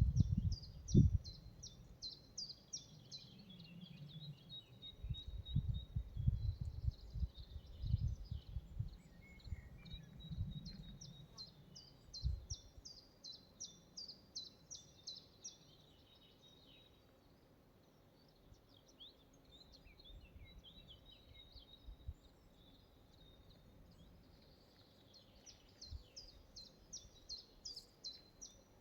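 Forest ambience with a songbird singing phrases of quick, high, falling notes, repeated several times. Irregular low rumbling bursts, the loudest sound, come through the first half and then die away.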